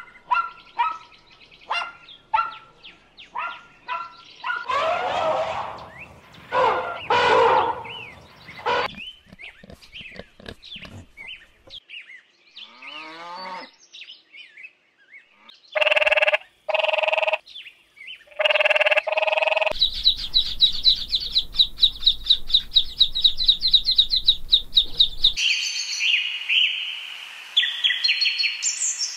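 A string of recorded animal and bird calls, one kind after another, including three loud calls in the middle and a fast run of high repeated chirps near the end.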